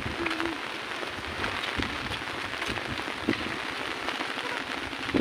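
Heavy rain falling: a steady hiss with many scattered sharp taps of single drops.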